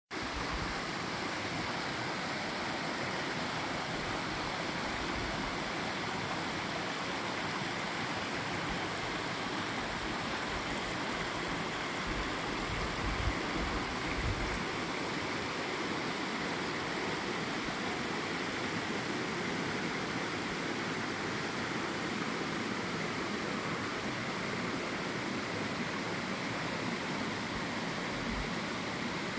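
Small creek waterfall: a steady, even rush of falling water, with a brief low thump about halfway through.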